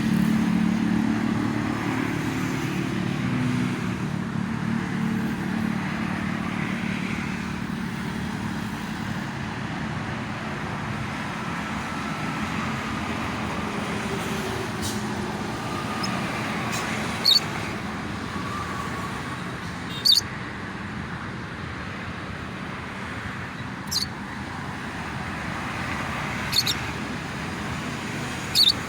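Steady road traffic noise, with heavier engine rumble in the first few seconds. Over it, in the second half, come five short, shrill lovebird chirps, the loudest sounds here.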